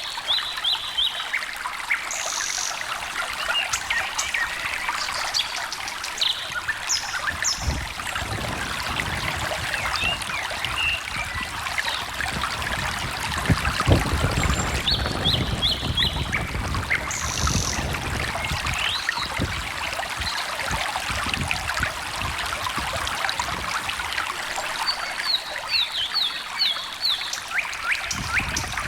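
A small stream trickling and babbling steadily, with fuller, deeper gurgling in the middle stretch. Songbirds sing over it, with a short run of quick high notes at the start, again about halfway through, and near the end.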